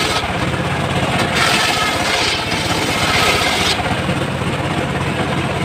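Engine of a homemade circular sawmill running steadily, with the blade cutting through teak for about two seconds in the middle.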